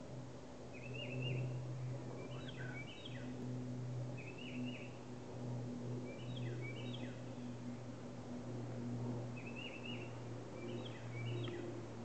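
A songbird singing short, repeated phrases every two seconds or so, alternating a falling slurred phrase with a quick chattering one, over a steady low hum.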